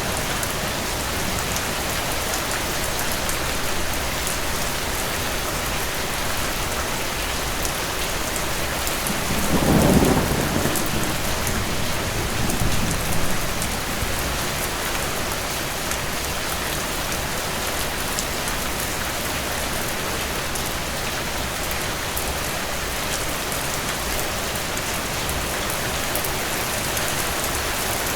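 Steady rain hiss. A distant thunder rumble swells about ten seconds in, and a smaller rumble follows a couple of seconds later.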